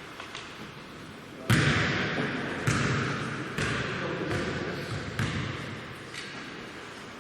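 Basketball bouncing on the court, about one bounce a second starting about a second and a half in, the first bounce the loudest, each echoing in a large hall.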